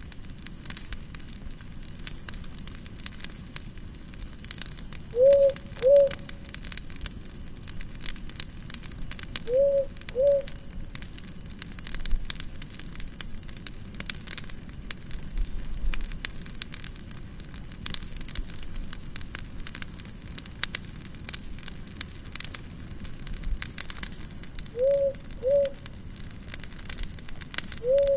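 Wood fire crackling and popping with many small sharp snaps. A low two-note call repeats four times, a few seconds apart, and there are two short runs of rapid high chirps.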